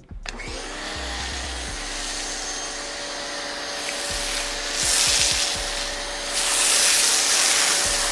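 Pressure washer motor running steadily, with the hiss of the water jet swelling twice as the spray is triggered, about halfway through and again near the end.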